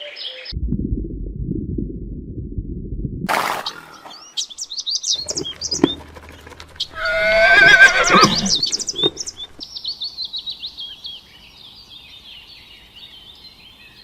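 A run of short animal-call clips: a low rumbling sound for about three seconds, then high chirping calls, a loud wavering call in the middle, and fainter high chirps trailing off near the end.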